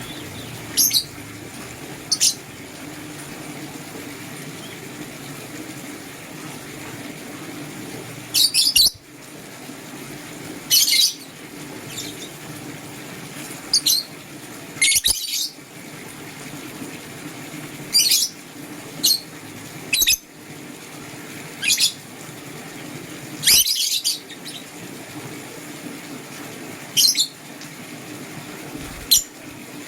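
Lovebirds chirping: short, sharp high-pitched calls every second or two, some coming in quick clusters, over a steady low hum.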